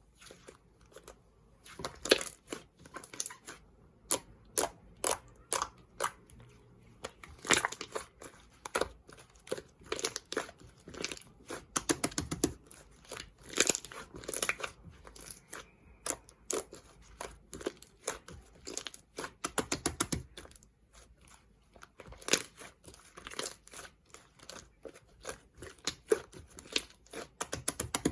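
Slime being pressed, stretched and folded by hand, giving dense, irregular crackling pops and clicks.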